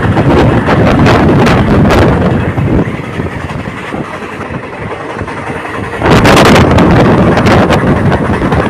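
A passenger train running at speed, heard from an open coach door or window: wind buffets the microphone over the rumble and clatter of the coaches. The noise drops for about three seconds in the middle, then comes back loud.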